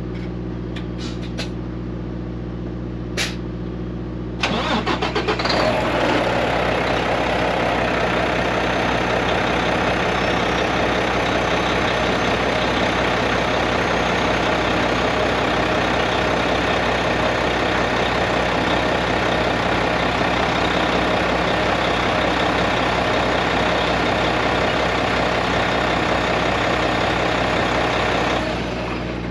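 Mack MP8 inline-six diesel engine in a semi truck cranking briefly about four seconds in and catching at once, then running steadily at idle: a quick, normal start now that its injectors have been replaced. The engine noise drops off sharply near the end.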